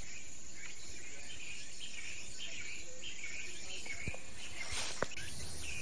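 Outdoor insect chorus chirping steadily. A sharp click comes about four seconds in, and a brief rustle and a second, louder click come about five seconds in.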